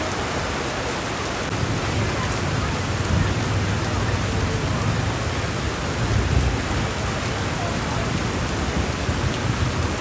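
Heavy rain pouring steadily, a dense hiss of rain on surfaces. A low rumble joins it about a second and a half in and fades out toward the end.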